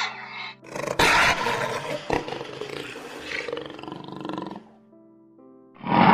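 A big cat roaring: one long roar starting suddenly about a second in, loudest at its start and trailing off over about three seconds, with a second short burst near the end. Background music plays beneath it.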